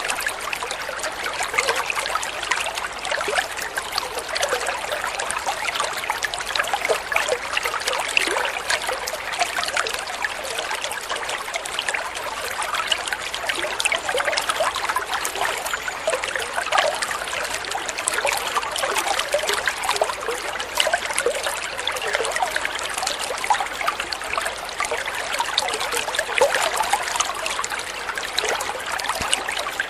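Water flowing and trickling steadily, with a continuous stream of small splashes and gurgles.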